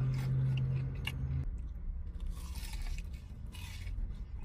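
Biting into and chewing lemon pepper chicken, with short crunchy bites and mouth sounds. A low steady hum underneath stops about a second and a half in.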